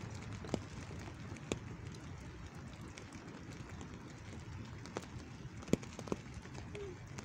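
Rain falling, a steady patter with sharp single drops tapping now and then, heard from under an umbrella.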